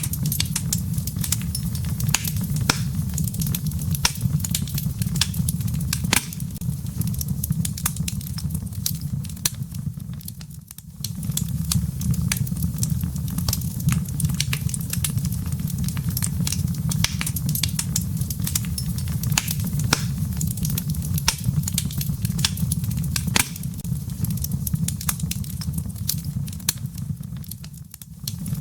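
Wood fire burning in a fireplace: a steady low rumble of flames with dense irregular crackles and pops of the firewood. The sound dips briefly about ten seconds in and again near the end.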